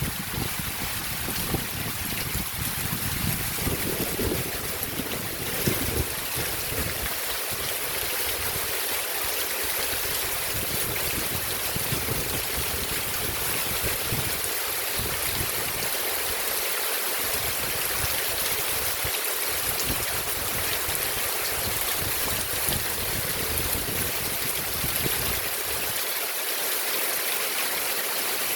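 Heavy rain falling, a steady rushing hiss of water. Wind buffets the microphone for the first few seconds.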